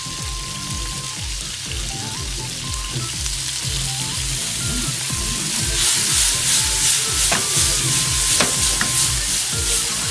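Sliced tomatoes and onions sizzling in a nonstick frying pan over a gas flame, with fish sauce just added. The sizzle grows louder about six seconds in as the pan is tossed, with a few sharp knocks.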